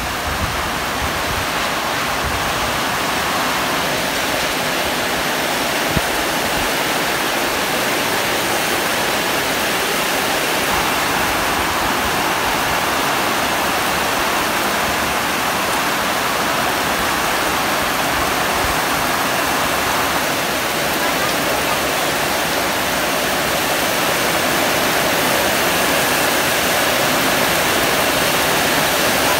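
Heavy rain pouring down onto corrugated metal roofs and foliage, a dense steady hiss that grows slightly louder over the stretch. One small sharp tick about six seconds in.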